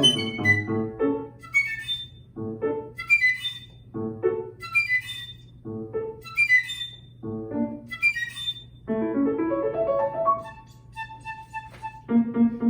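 Flute and piano playing a classical chamber piece. Short, quick flute figures in the high register are set against piano chords, and the pattern repeats about every second and a half. Toward the end a few sparse high notes sound alone before the piano comes back in.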